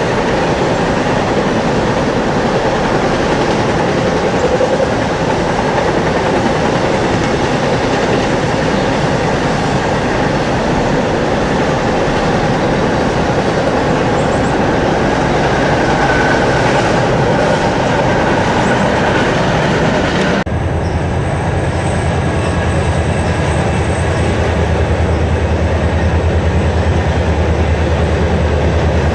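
A train passing close by, its wheels rolling on the rails with a loud, steady noise. About two-thirds of the way through it changes abruptly to a deeper, pulsing rumble with less hiss.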